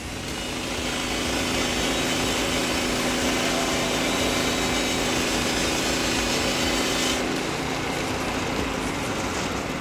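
Portable gas-engine band sawmill sawing through a log: the blade's steady hiss over the engine running under load. About seven seconds in, the hiss of the cut stops while the engine keeps running.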